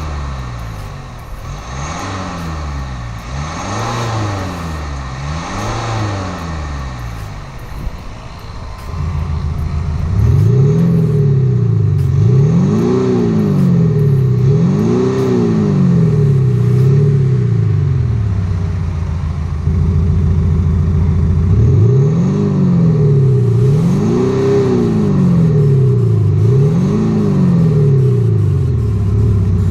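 Mercedes GLC coupé diesel with a Cargraphic Active Sound exhaust system giving a synthesised V8-type note, revved in repeated blips about every two seconds. The note is quieter for the first few blips and much louder from about ten seconds in, settling to a steady idle for a few seconds between runs of blips.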